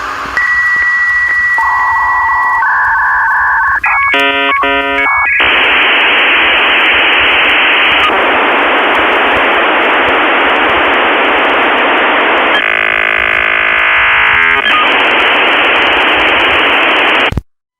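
Electronic beeps and warbling tones, then a long, loud burst of harsh static-like hiss with a brief tonal warble in the middle. It cuts off suddenly near the end.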